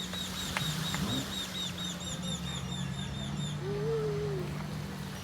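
A bird calling a rapid run of short, high chirps, about four a second, that stops about three and a half seconds in, over a steady low hum.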